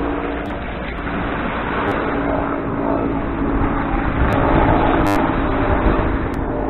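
Steady drone of aircraft engines and rushing air heard from inside the passenger cabin, with a steady hum and a deep rumble, swelling a little louder about halfway through.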